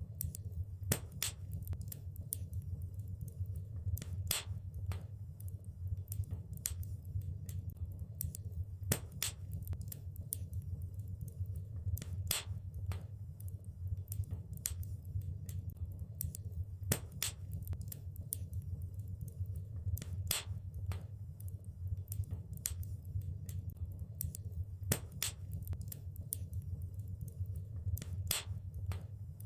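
Wood fire crackling in a fireplace: irregular sharp snaps and pops, a few louder than the rest, over a steady low rumble of burning.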